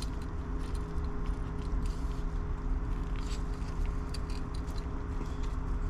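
Faint, scattered light clicks and scrapes of a piston ring being worked onto a piston by hand, over a steady background hum.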